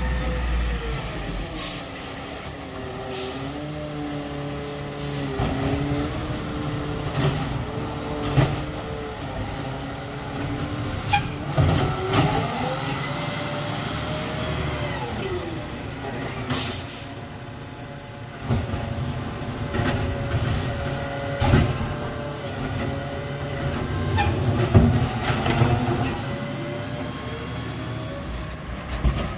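Freightliner 108SD garbage truck with a McNeilus ZR automated side-loader working: its diesel engine revs up and down several times to drive the hydraulics, with air-brake hisses and sharp knocks and bangs of carts being handled and emptied.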